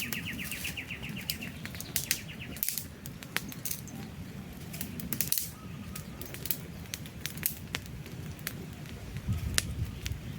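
Wood campfire crackling, with irregular sharp pops and snaps over a steady low rumble of flames. A bird gives a fast, high trill that fades out during the first second or so.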